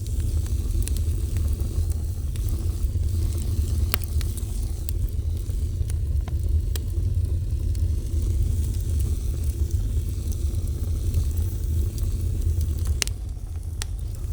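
Wood fire burning with a steady low rumble and a soft crackling hiss, broken by a few sharp pops: one about four seconds in and two close together near the end.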